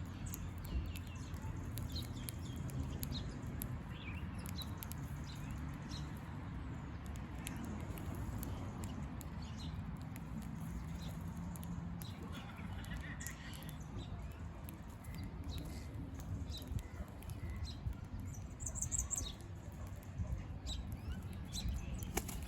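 Wild birds giving scattered short, high chirps, with a brief cluster of higher notes near the end, over a steady low rumble.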